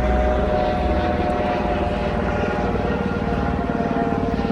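A steady mechanical drone: a low rumble with a few held tones, level throughout.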